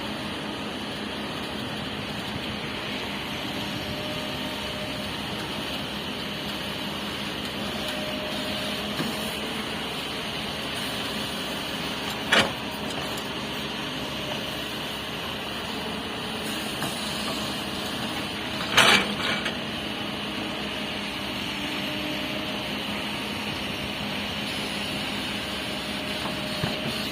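Heavy earthmoving machinery's diesel engine running steadily, with two sharp knocks, one about twelve seconds in and a louder one near nineteen seconds.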